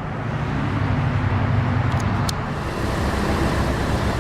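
Lamborghini Gallardo LP570-4 Superleggera's 5.2-litre V10 running steadily, a low even engine sound with a couple of faint clicks about two seconds in.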